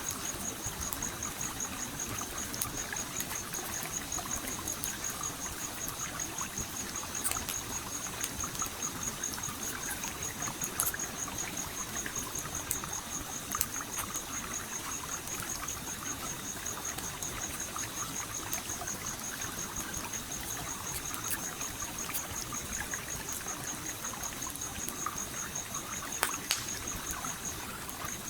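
Stream water trickling and flowing steadily, with a few sharp crackles and pops from a campfire. A high, fast-pulsing trill runs throughout and breaks off briefly near the end.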